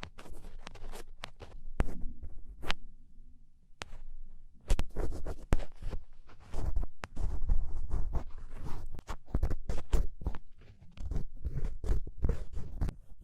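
Ear pick scraping and crackling inside an ear canal while dark earwax is worked loose, in irregular scratchy strokes with sharp clicks and dull rumbles of contact, and a short pause after a few seconds.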